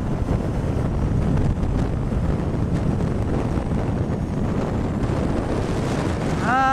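Wind rushing over the microphone of a rider on a moving Honda CB1000R motorcycle, a steady dense roar heaviest in the low range. Near the end a pitched sound sliding down in pitch begins.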